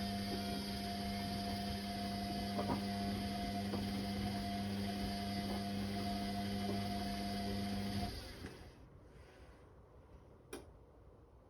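Whirlpool Indiana 1400 front-loading washing machine running with a steady hum that stops abruptly about eight seconds in. A single sharp click follows near the end.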